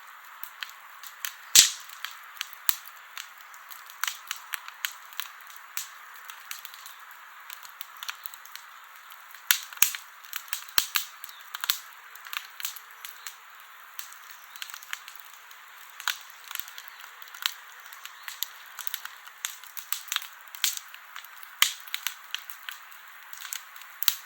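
Wood fire crackling, with a steady hiss and irregular sharp pops and snaps, a loud one about a second and a half in.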